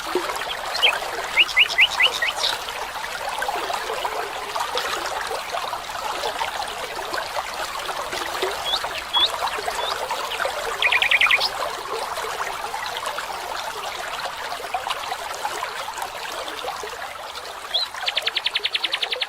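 A stream trickling steadily while birds chirp over it. There are a few short chirps about a second in and again around the middle, and quick rapid trills shortly after the middle and near the end.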